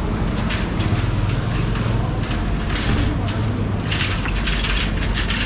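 City street traffic: a large vehicle running close by with a steady low hum, plus hissing and rattling that swell near the end.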